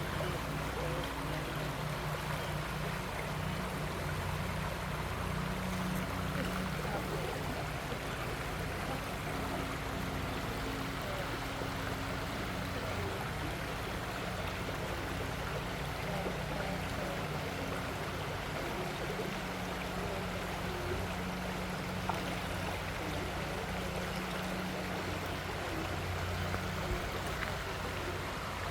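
Creek water flowing steadily, with a steady low hum underneath.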